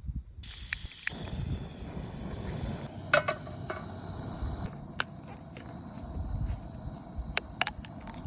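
Insects chirping steadily in the background, with scattered sharp clicks and knocks from something being handled, the loudest about three seconds in.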